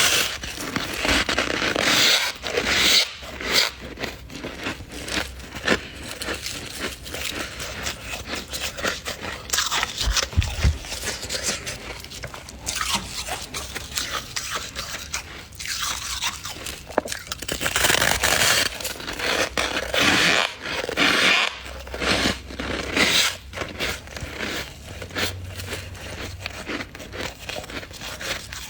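Crunching and scraping of thick freezer frost, a dense run of short gritty strokes with louder clusters near the start and later on.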